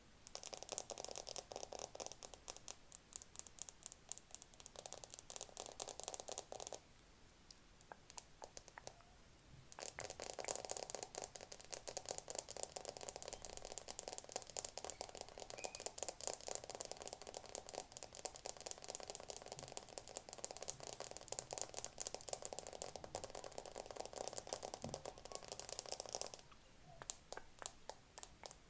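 Fast, dense tapping on a camera, a rapid rattle of small clicks. It stops for a few seconds after about seven seconds, leaving only a few scattered taps, then resumes and thins out again near the end.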